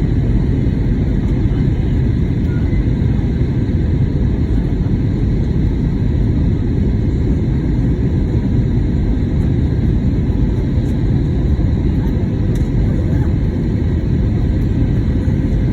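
Steady cabin noise inside an Airbus A320neo airliner in flight: a loud, even low rush of airflow and engines with faint steady tones above it.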